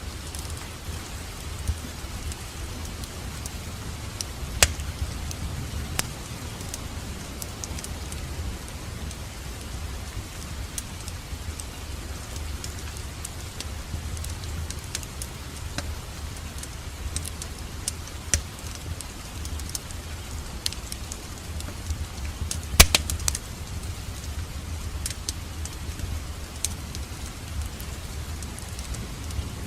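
Wood fire crackling in a fireplace: a steady low rumble of flame with scattered sharp pops and snaps, and a louder cluster of pops about two-thirds of the way through.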